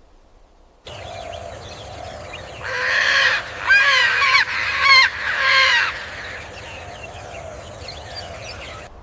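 A large bird giving a series of loud, harsh honking calls, about four or five in close succession, over a background of other birds chirping.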